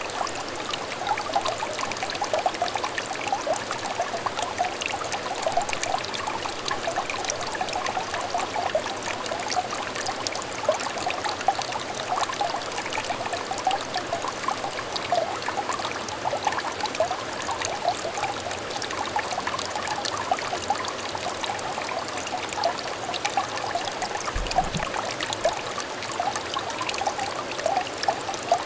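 Small stream of water trickling steadily over stones, a continuous babble of small splashes and bubbling. A brief low bump comes near the end.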